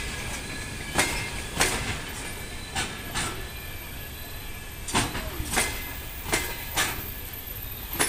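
Passenger coaches rolling slowly into a station, their wheels knocking over the rail joints in pairs as each bogie passes, about one pair every second or two, over a steady rumble with a faint steady whine underneath.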